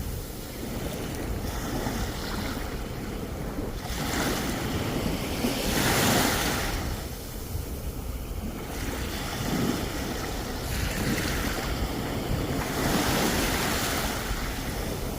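Sea waves breaking on the shore, the surf swelling in repeated surges every few seconds, with wind buffeting the microphone.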